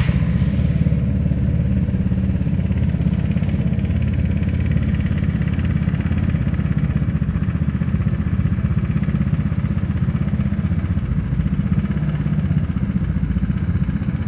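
Vespa GTS 300's single-cylinder four-stroke engine idling steadily through its aftermarket carbon-fibre exhaust, just after being started.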